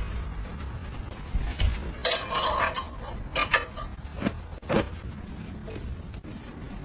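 Household objects being handled: scattered clicks, clinks and rattles, with the busiest clatter about two seconds in and a pair of sharp clicks a little later.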